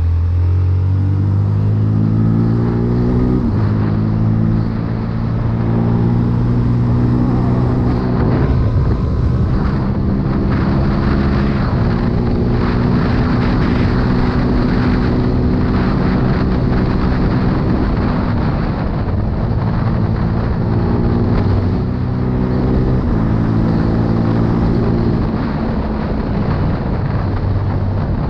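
CFMoto 250CL-X single-cylinder engine pulling hard under throttle, its pitch climbing in the first seconds, then stepping down and up again through several gear changes. Wind rushes over the microphone throughout.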